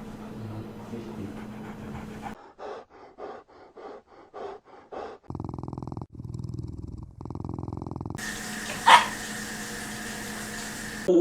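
Small puppies in a run of short clips: rhythmic short grunts or breaths about three a second, then a low, steady puppy growl, then one brief sharp yip about nine seconds in.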